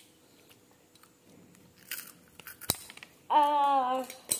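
Faint crunching of cheese snack sticks being chewed, a sharp click about two and a half seconds in, and a drawn-out wordless vocal sound near the end, the loudest thing heard.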